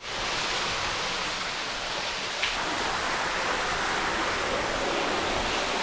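A steady, even rushing noise that starts abruptly at a cut and holds almost unchanged, with little low rumble.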